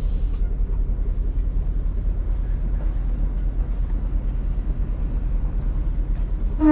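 Yacht's inboard engine running steadily as the boat motors along, a continuous low hum.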